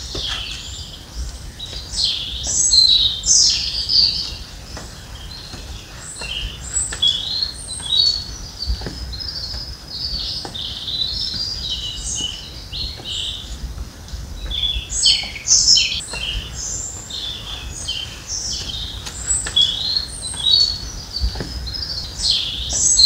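Songbirds singing: a dense run of short, high chirps and trills, busiest at the start and again in the second half.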